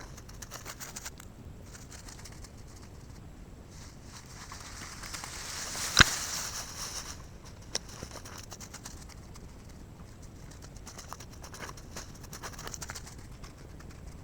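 Outdoor woodland ambience with scattered small ticks and rustles; a rushing noise swells for about two seconds and ends in a single sharp snap about six seconds in.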